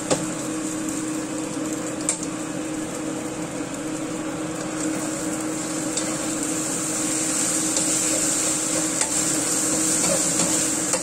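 Egg and shrimp frying in oil in a nonstick wok with a steady sizzle. A slotted spatula stirs and scrapes the scrambled egg, clicking against the pan now and then. A steady low hum runs underneath.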